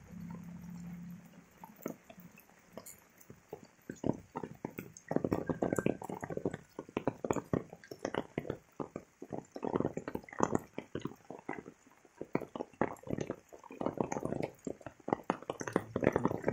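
Rain falling, with large drops striking close to the microphone as a dense, irregular run of sharp taps that grows busier after the first few seconds. A low hum fades out in the first second.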